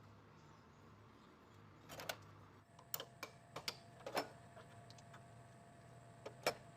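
Scattered light clicks and taps, about a dozen, in two clusters, over a faint steady hum.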